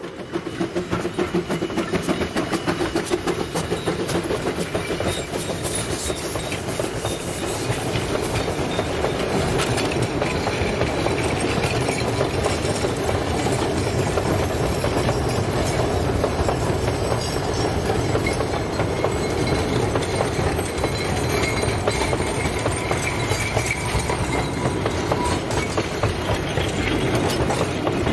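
Two-foot narrow-gauge steam train passing slowly over a wooden trestle: a steady rolling rumble with a running clickety-clack of wheels on the rail joints as the boxcars and passenger coaches go by.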